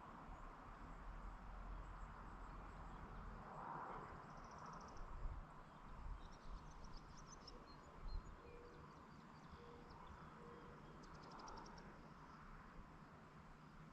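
Faint rural evening ambience: two short high insect trills and a few scattered bird chirps over a low background hiss, with a couple of soft low bumps.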